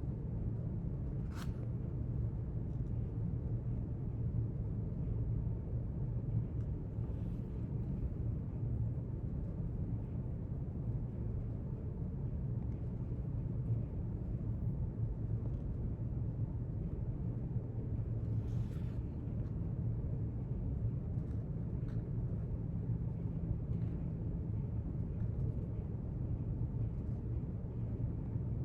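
Steady low rumble of library room ambience, with a few faint clicks, one sharper about a second in.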